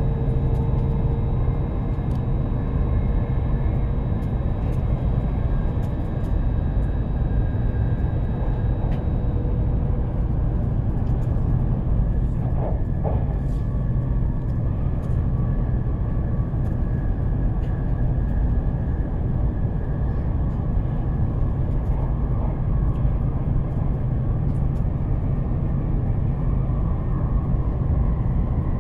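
Steady running noise of an E7-series Hokuriku Shinkansen train heard from inside the passenger cabin: a constant low rumble with a few faint steady whining tones over it.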